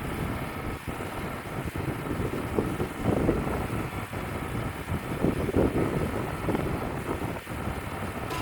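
Wind buffeting the microphone in gusts over the steady running of a Wood-Mizer LT35 portable band sawmill.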